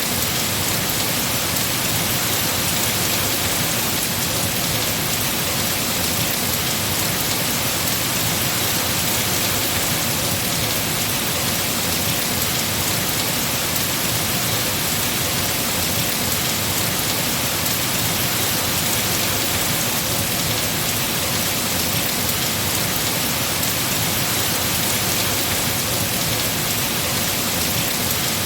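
Heavy rain falling steadily on trees and foliage, an even, unbroken hiss of rain.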